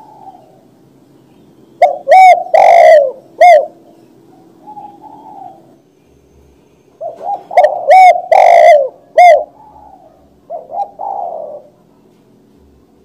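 Spotted dove (tekukur) cooing: two loud phrases of several short, bending coo notes, about two seconds in and again about seven seconds in, with softer coos between them. The peaks reach full scale, so the calls sound harsh and clipped.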